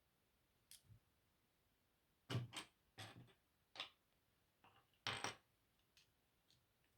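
Small plastic Lego pieces clicking and clattering as they are handled and pressed together, a few sharp clicks with the loudest cluster a little past the middle.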